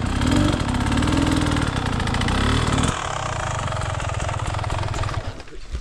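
Motocross dirt bike engine running loud, its pitch rising and falling with the throttle for about three seconds, then dropping to a lower, steadier note that dies away near the end.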